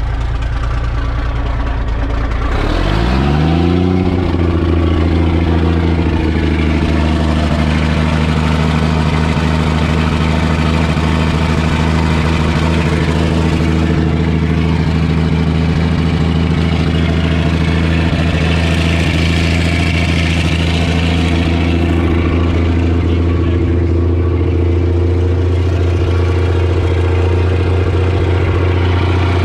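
Cabover semi truck's diesel engine running; about three seconds in its pitch rises smoothly as it speeds up, then it holds a steady speed.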